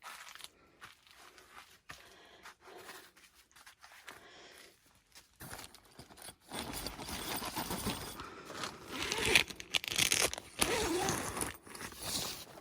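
Faint handling for the first half, then, about halfway in, a tent's nylon door zipper being pulled open with the fabric rustling and crinkling as someone goes through.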